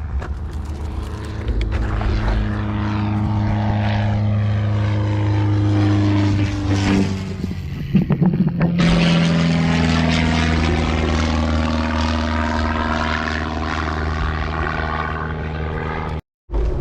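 A steady engine drone with a low, even hum, its tone sweeping as it passes.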